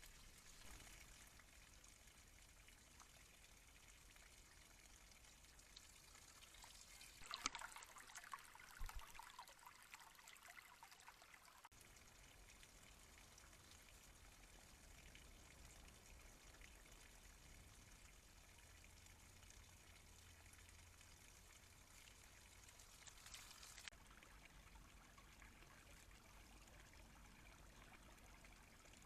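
Near silence: the faint steady hiss of a trail camera's microphone. About seven seconds in comes a few seconds of rustling with a couple of sharper knocks, and fainter rustling again near 23 seconds.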